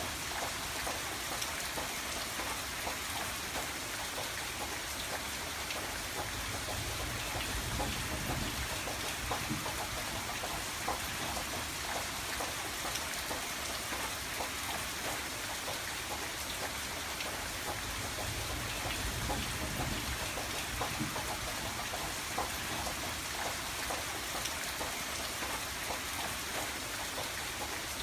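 Rain falling on a window pane: a steady patter of many drops striking the glass. A soft low rumble swells up twice, about a third and two thirds of the way through.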